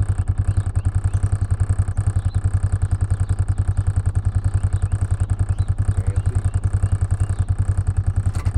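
A vehicle engine running steadily with an even, fast pulse of about ten beats a second.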